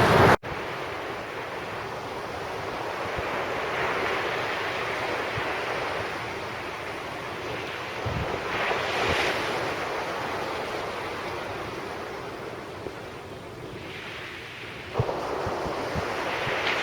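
Sea surf breaking and washing up the beach, swelling and fading every few seconds, with wind buffeting the microphone.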